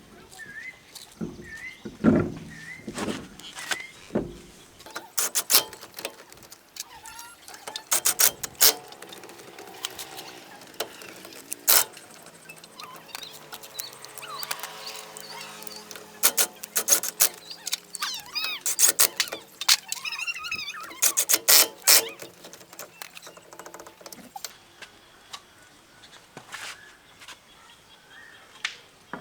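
Metal parts and tools being handled: repeated sharp clicks and knocks, coming in clusters, with a faint pitched tone in the middle.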